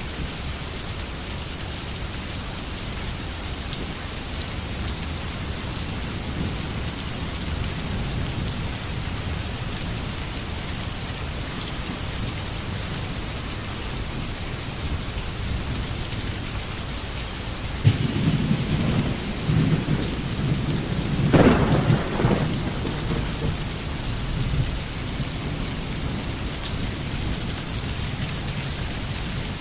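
Steady rain, with a rumble of thunder that starts suddenly about two-thirds of the way through, cracks loudest a few seconds later, then fades back under the rain.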